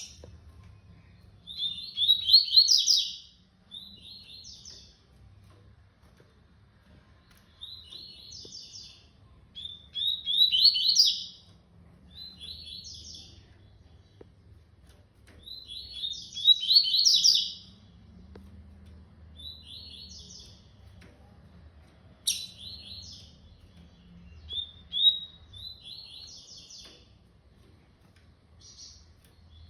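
A small bird singing rapid, chattering song phrases that come again every six or seven seconds, with shorter, softer calls in between.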